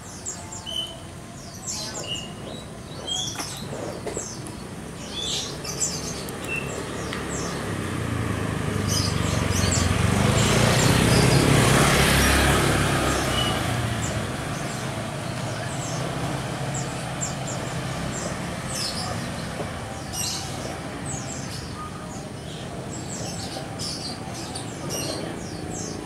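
Short, high bird chirps repeat throughout. In the middle a passing vehicle's noise swells up over a few seconds, peaks and fades away.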